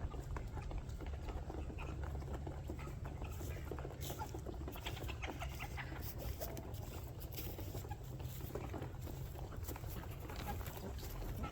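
Flock of chickens clucking, with many short scattered clicks and ticks.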